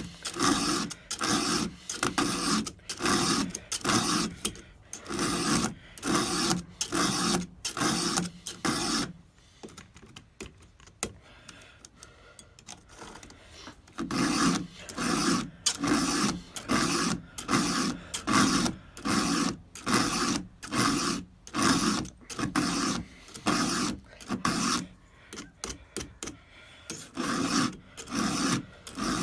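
A 4 mm round file rasping across the cutter teeth of a Stihl 200T chainsaw chain to sharpen them: steady, even strokes at about one and a half a second. There is a pause of about five seconds partway through, then the filing resumes.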